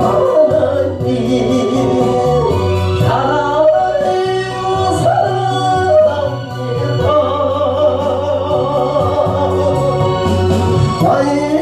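A solo voice singing a slow gospel praise song with a wide vibrato on the held notes, over an instrumental accompaniment with a steady bass line.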